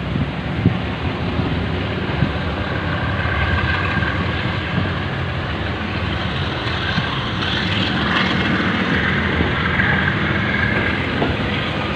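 Passenger train running at speed: steady drone of the diesel locomotive with the rumble of wheels on the track, and a faint high whine coming in from about three seconds in.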